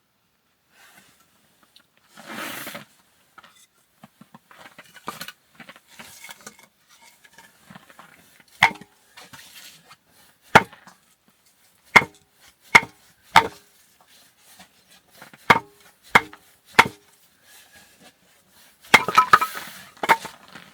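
Wood being split into small kindling pieces: a run of sharp, irregularly spaced chopping knocks on frozen wood, with a brief rustle early and a quick flurry of knocks near the end.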